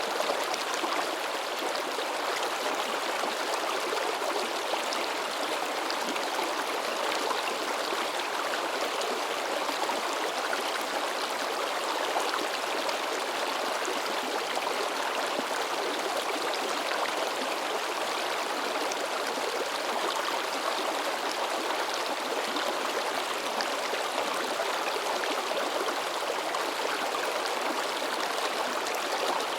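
Mountain stream babbling and splashing over rocks, a steady rush of flowing water.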